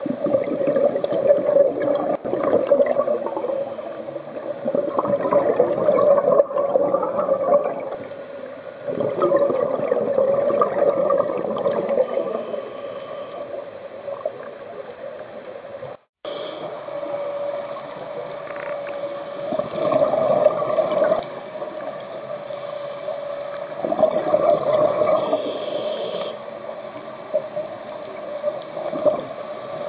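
Underwater scuba breathing: exhaled bubbles from the regulator rush out in surges every few seconds, over a steady drone.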